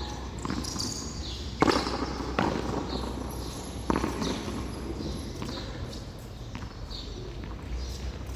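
A hand-pelota rally in frontón: a hard rubber ball slapped by the hand and striking the wall and floor, several sharp smacks with the loudest about a second and a half in, then softer hits.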